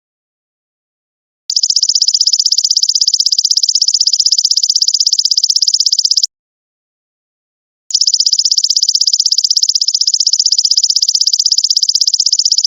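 Golden locust (belalang emas) insect calling: a high-pitched, rapidly pulsed buzzing trill. It starts about a second and a half in, breaks off after about five seconds, and comes back after a pause of about a second and a half.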